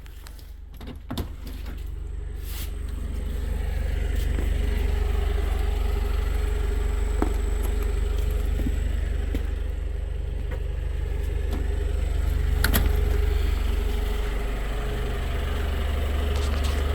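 Telehandler engine running with a steady low rumble, growing louder over the first few seconds and then holding steady. There is a single sharp click about three-quarters of the way through.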